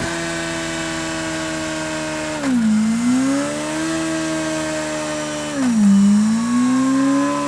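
Kawasaki Z1100's inline-four engine through an SC-Project CR-T slip-on exhaust, running hard under load. The pitch drops sharply twice, about two and a half seconds in and again near six seconds, as with quick upshifts, and climbs back after each one.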